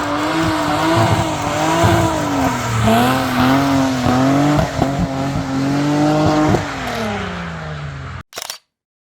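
A drift car's engine revving hard, its pitch swinging up and down as the throttle is worked through a slide, with a few sharp cracks. Near the end the revs fall away as the driver lifts off, and the sound cuts off abruptly, followed by a brief blip.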